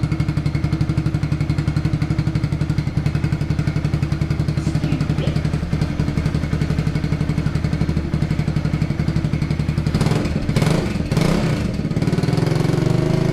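Kawasaki KLX110's small air-cooled four-stroke single-cylinder engine idling steadily, warming up so the oil will drain. About ten seconds in a few sharp knocks sound and the engine note briefly changes.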